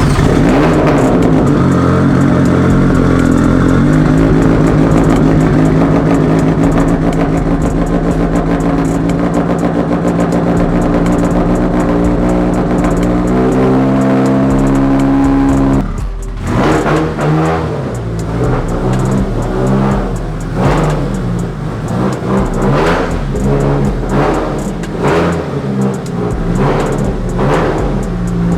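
A Mitsubishi Lancer Evolution's turbocharged engine running while driving: a steady drone for the first half, then repeated rises and falls in revs after a sudden change about 16 seconds in.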